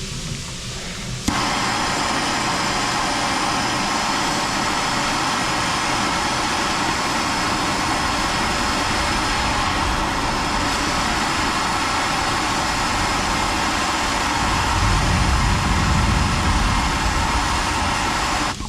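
Plastic-welding torch running with a steady hissing rush, switched on suddenly about a second in and shut off just before the end, heating the plastic of a fog lamp housing to melt and fuse it.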